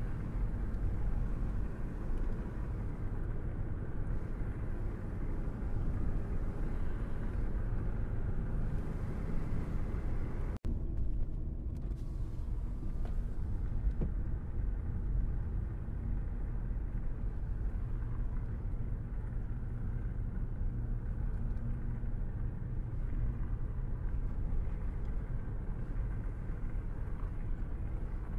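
Car driving at a steady speed: engine and tyre road noise as a low, even rumble. It breaks off for an instant about ten seconds in and then carries on slightly duller.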